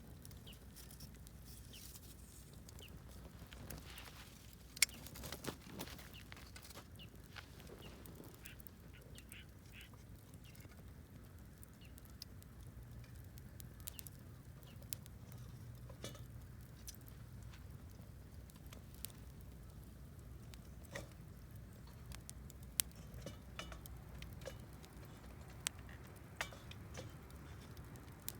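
Wood fire crackling: irregular sharp pops and snaps over a low steady rumble, the loudest pop about five seconds in.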